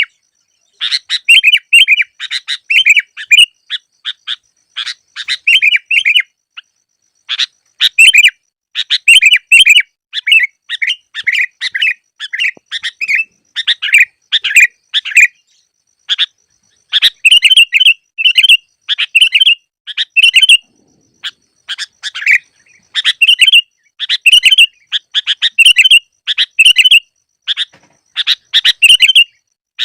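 Sooty-headed bulbul (kutilang) calls played as a lure recording: short, bubbly chirping phrases repeated over and over, with brief silent gaps between them.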